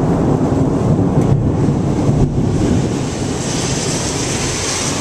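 Thunder rumbling low and rolling, loudest in the first three seconds and then slowly fading, with a steady hiss coming up about three and a half seconds in.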